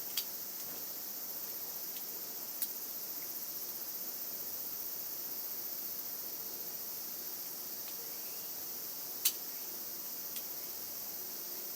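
Steady high-pitched insect chirring, with a few short sharp clicks; the loudest click comes about nine seconds in.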